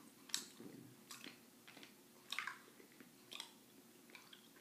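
Faint closed-mouth chewing of a very hard chewy candy, with sharp clicks roughly once a second. The clicking comes with each chew of the stiff candy, which the chewer says is rattling his jaw.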